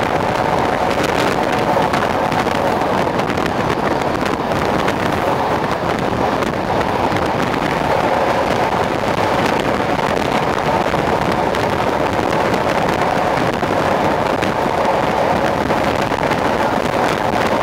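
Train running at a steady speed: a continuous, even rushing noise with a faint steady hum.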